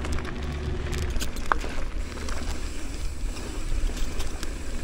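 Mountain bike rolling down a dirt trail, heard through a helmet-mounted action camera: steady wind buffeting and tyre rumble with scattered small clicks and rattles, and a brief squeak about a second and a half in from the camera's helmet mount.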